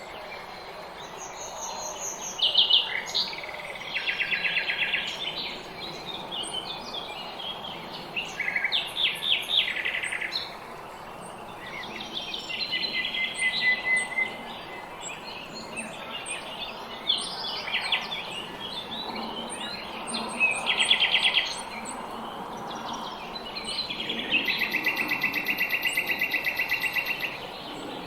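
Several small songbirds singing in a spring dawn chorus: varied chirps and short phrases overlapping, with a long, fast trill near the end, over a faint steady background hiss.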